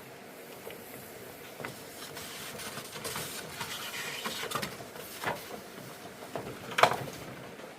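Handling noise: rustling and scraping with scattered knocks, busiest in the middle, and one sharp knock, the loudest, about seven seconds in.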